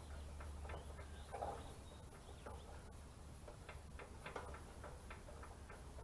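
Faint, irregular light clicks and taps from small parts being handled during fuel-line fitting work, over a low steady hum.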